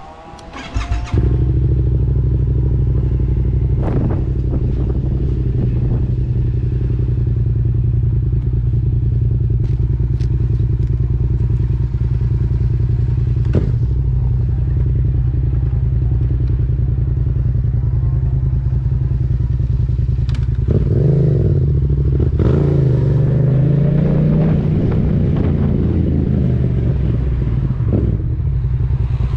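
Yamaha MT-07's 689 cc parallel-twin engine, breathing through a Mivv aftermarket exhaust with the dB killer removed, fires up about a second in and settles into a steady idle. From about 21 to 25 seconds in it is revved several times, the pitch rising and falling, before dropping back to idle.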